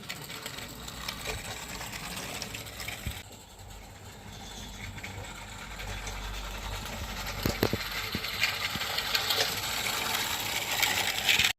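Small live-steam garden-railway locomotive running, a hiss of steam with a quick mechanical rattle and clicks. It grows louder toward the end and then cuts off suddenly.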